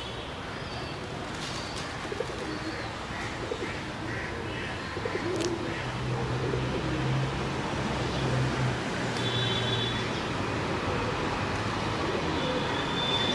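Pigeons cooing against steady outdoor background noise, with a low hum from about five to nine seconds in.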